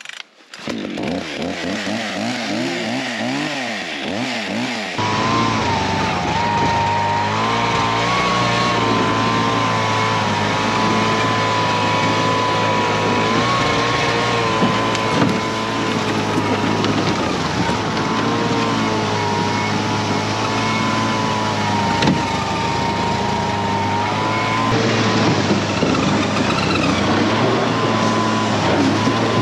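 Snowmobile engine running, its pitch wavering up and down for the first few seconds, then holding steady at an even speed.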